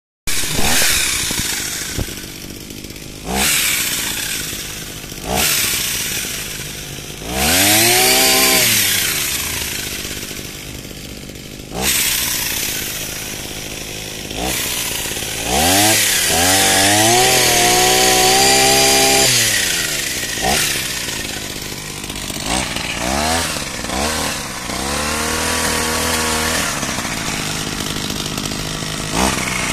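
Small engine of a pole pruner running, revved up several times: the pitch rises, holds for a few seconds and drops back to idle.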